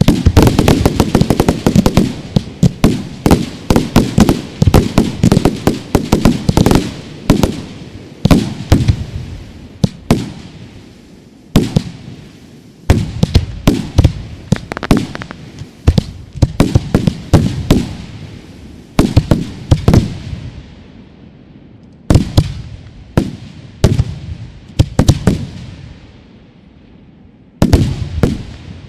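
Fireworks display, with cake batteries and aerial shells going off in rapid volleys of bangs. They come thick and fast for the first ten seconds or so, then in shorter clusters with brief lulls, with one last burst near the end.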